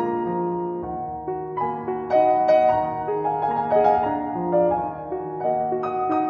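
Piano music: a slow melody of held notes over sustained chords.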